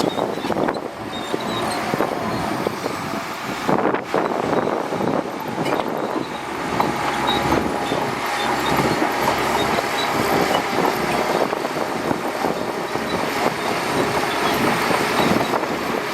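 Shantui DH17C2 crawler bulldozer running, its diesel engine drone mixed with continuous rattling and clanking from the machine, with a faint whine in the middle.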